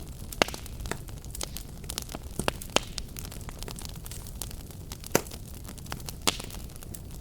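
Wood fire crackling, with a steady low rumble of flames and irregular sharp pops, a few of them louder, about half a second in, near the middle and toward the end.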